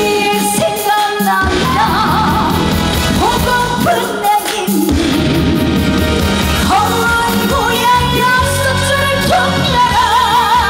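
Live trot song: a female singer with strong vibrato over an amplified band.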